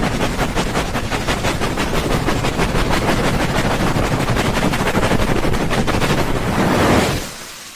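Rapid rubbing of the ears of a binaural ASMR microphone, the 'helicopter' ear-rubbing trigger: a fast, even fluttering beat of strokes that fades out near the end.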